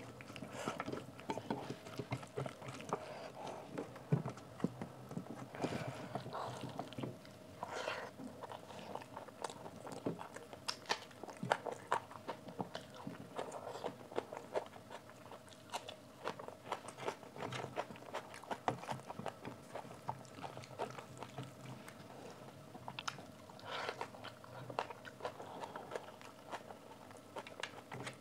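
Close-up eating sounds: a person chewing and smacking mouthfuls of rice eaten by hand, with many small wet clicks, and fingers squishing and mixing rice on a steel plate.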